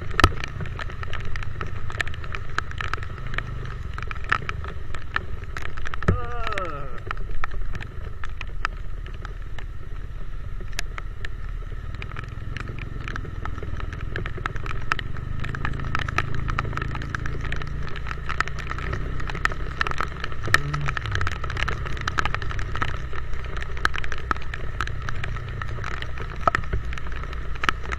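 Motorcycle riding in the rain: a steady low engine and road rumble, scattered sharp ticks of raindrops hitting the microphone, and a brief falling whine about six seconds in.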